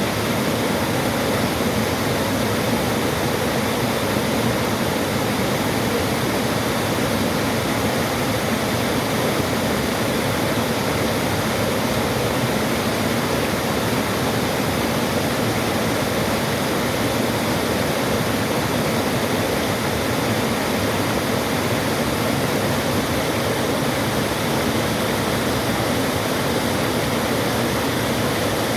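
Waterfall rushing: a steady, even noise of falling water that does not let up.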